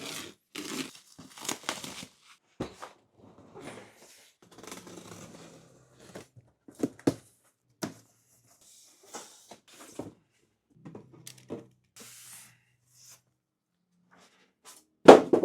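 Irregular rustling, crinkling and knocking of something being handled, with a loud thump near the end.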